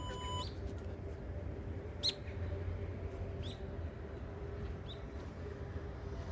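A short electronic beep at the start, then three brief, downward-sweeping bird chirps about a second and a half apart, over a low steady hum.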